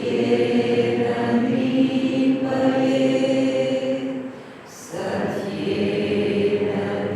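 Voices chanting long, slow held notes. There is a short pause for breath about four and a half seconds in, then the chant goes on.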